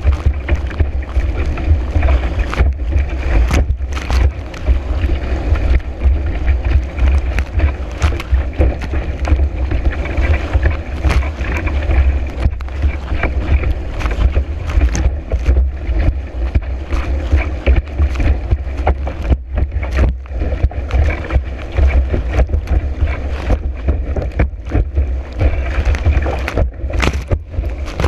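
Strong wind buffeting a board-mounted action-camera microphone as a steady low rumble, with water rushing past and frequent sharp slaps as the kiteboard skims over chop.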